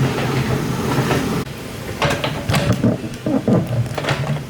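Excavator's diesel engine running steadily. About a second and a half in it suddenly drops away, and a weaker hum goes on under scattered knocks and clatter.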